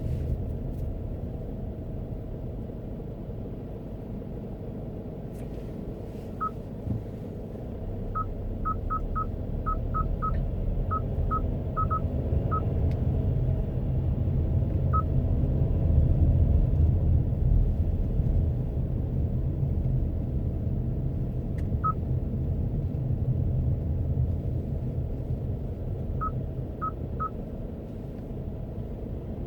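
Steady low road-and-engine rumble inside a moving car, with short, high electronic beeps at one pitch scattered over it: a quick irregular run about eight to twelve seconds in, and a few more later, three of them near the end.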